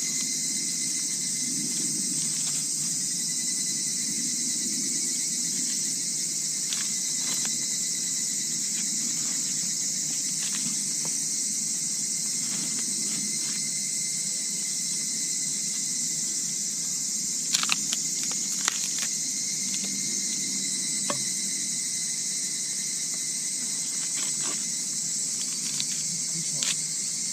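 Steady chorus of crickets and other night insects, a continuous high shrill trill, with scattered sharp clicks, a cluster of them about two-thirds of the way through and a few more near the end.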